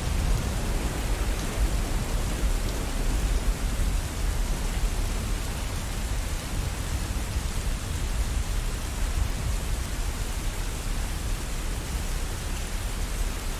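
Steady rain falling, with a low rumble of thunder underneath that dies away over the first few seconds.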